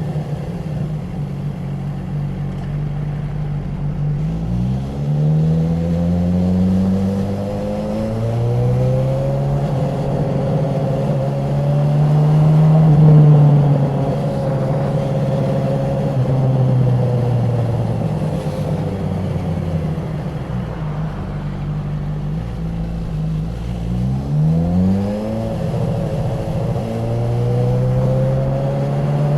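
Honda CB1000R's inline-four engine and exhaust under way, pulling up through the gears: the pitch rises in climbs broken by short drops at each shift. It eases off and falls slowly past the middle, then picks up hard again with quick upshifts near the end.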